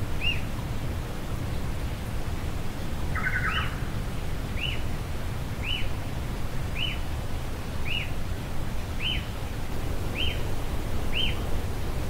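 A forest bird repeats a short, high call note about once a second, with one brief lower buzzy note a little over three seconds in, over a steady low background rumble.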